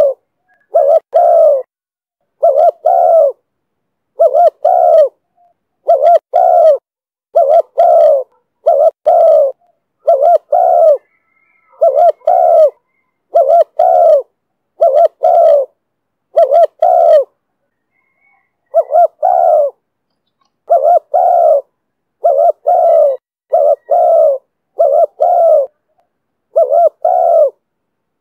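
Spotted dove cooing in the 'thổ thúc bổi' style prized by Vietnamese dove keepers: a long run of low coos, mostly in pairs, repeated every second or two, with a short break a little past the middle.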